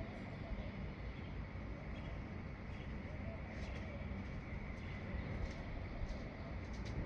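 Outdoor ambience: faint bird calls over a steady low rumble and a thin, steady high hum.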